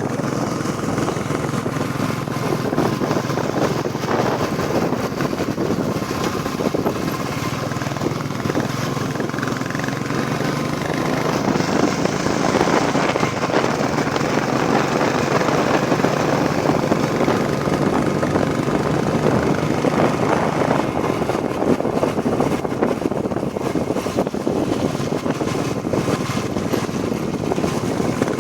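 Royal Enfield Classic 350 single-cylinder motorcycle engine running steadily while riding, over a broad rushing noise. It gets a little louder from about twelve seconds in.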